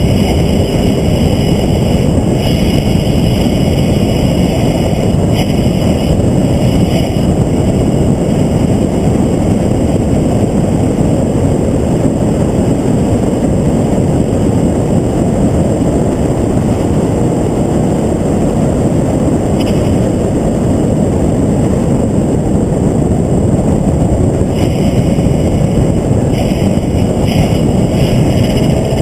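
A vehicle lapping a race track at speed, heard from an onboard camera: a loud, steady rush of wind and engine noise.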